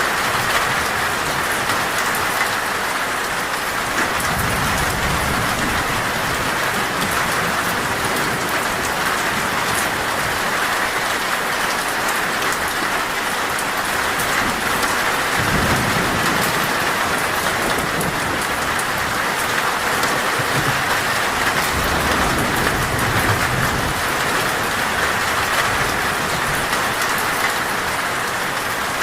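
Heavy, steady rain falling on a metal roof, with low rumbles of thunder a few times.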